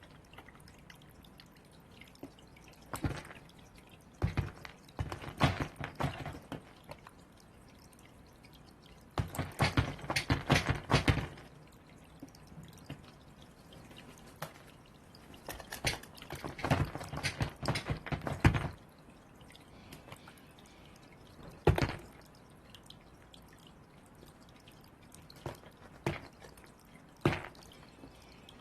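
A bird's beak pecking and knocking at a hard object in bouts of rapid clicking taps, each one to three seconds long, with single knocks in between.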